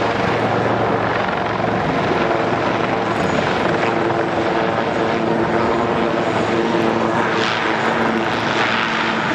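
Display helicopter, a Royal Navy Lynx of the Black Cats team, flying overhead: a steady, loud rotor and turbine noise with an even engine hum underneath.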